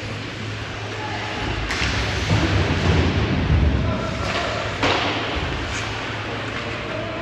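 Ice hockey rink sound: two sharp knocks, one just under two seconds in and one near five seconds, over a low rumble and the steady hum of the arena and its crowd. These are typical of a puck or stick striking the boards.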